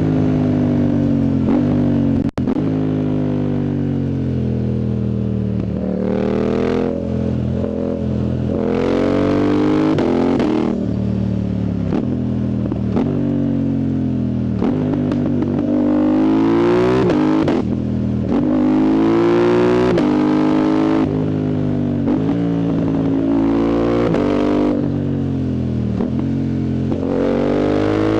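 A Yamaha MT-07's CP2 parallel-twin engine, running through a loud full exhaust with no dB killer, as the bike accelerates hard through the gears. The pitch climbs and then drops again and again with the revs and gear changes, and there is a brief sharp cut about two seconds in.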